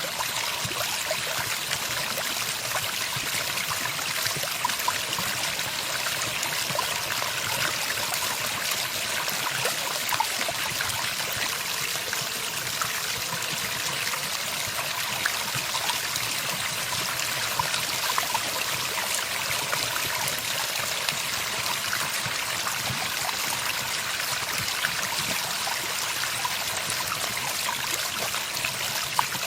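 Running water, a steady trickling stream with no birdsong over it.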